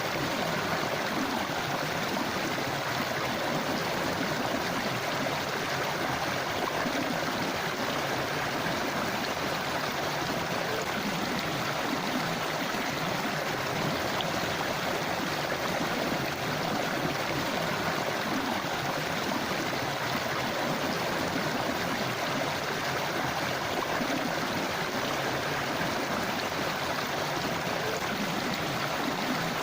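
A small forest river flowing steadily over rocks, a continuous rushing and gurgling of water.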